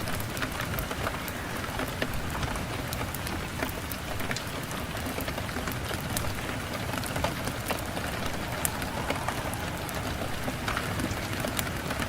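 Steady rain falling on a surface, with frequent sharp ticks scattered through it.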